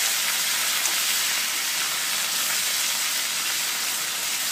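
Ginger-garlic paste sizzling steadily in hot oil in a kadai.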